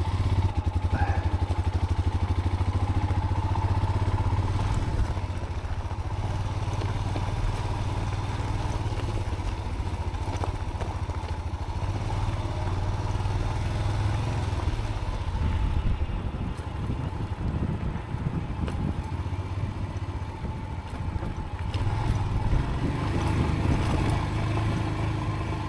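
Motorcycle engine running with a steady low note and even firing pulses, a little unsteady for a few seconds past the middle.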